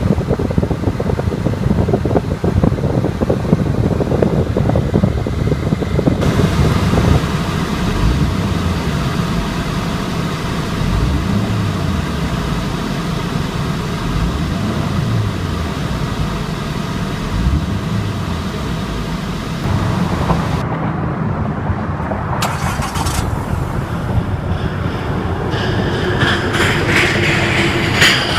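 Scion FR-S's 2.0-litre horizontally opposed four-cylinder engine running, its pitch rising and falling a few times as it is revved.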